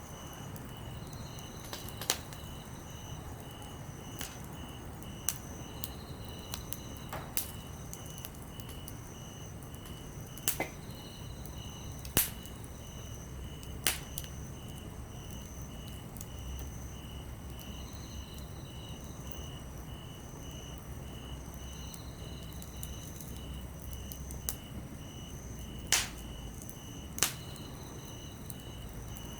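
Wood campfire crackling, with about ten sharp pops scattered through, over the steady pulsed chirping of crickets.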